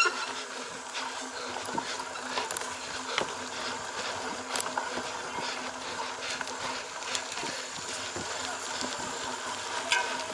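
Cyclocross bike being ridden off-road: a steady crackling of tyres on dirt and grass, with scattered small clicks and rattles from the bike.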